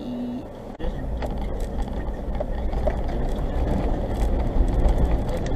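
Suzuki Jimny driving over a rough, rocky track: a steady low rumble of engine and tyres with scattered knocks and clatter. It grows louder after about a second.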